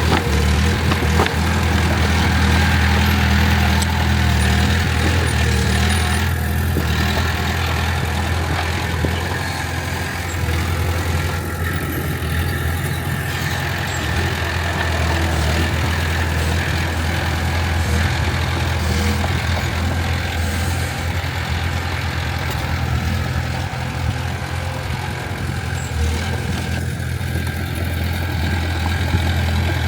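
Heavy diesel engine of earthmoving machinery running steadily at an even pitch, with a strong low hum.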